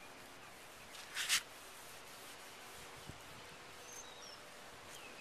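Faint outdoor background with a few faint bird chirps, and one short rubbing swish about a second in, a rag wiping toothpaste over a plastic headlight lens.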